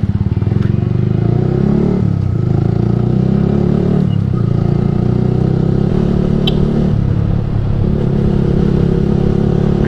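Yamaha R15 V3's single-cylinder engine through a Ronin Musashi aftermarket exhaust, running steadily under way, its note dipping briefly about two and four seconds in.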